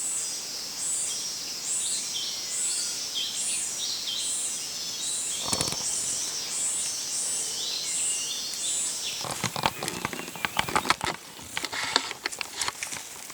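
A high-pitched wild animal call repeats steadily about every two-thirds of a second. A brief dull sound comes near the middle. From about nine seconds in, crackling and rustling in dry leaves and undergrowth takes over.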